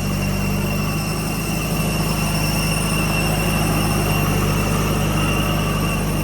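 Heavy diesel engine of a tractor or backhoe loader running at a steady speed, with a thin steady high whine over it.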